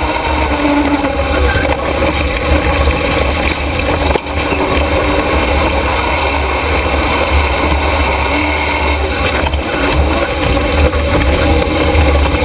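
Super stock truck's motor running steadily, with a strong low rumble.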